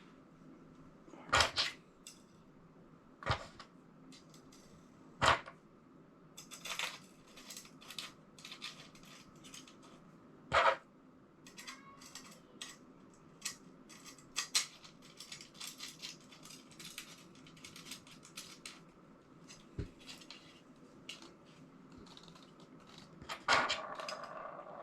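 Metal brackets and screws of a battery-mount shuttle clinking and knocking as they are handled and fitted together by hand: scattered sharp clicks with a few louder knocks.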